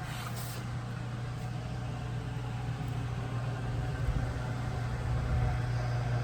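Race car engine idling with a steady low rumble, getting slightly louder towards the end.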